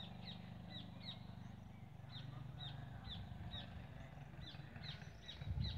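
A bird calling with a series of short, high chirps that drop in pitch, about two a second, over a faint steady low hum. A low rumble comes near the end.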